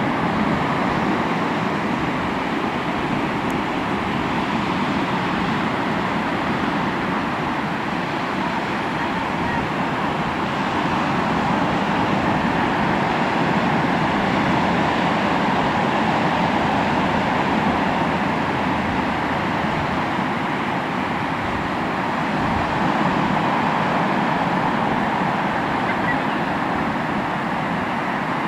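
Sea waves washing onto the shore in a continuous rush of surf, swelling gently in loudness a few times.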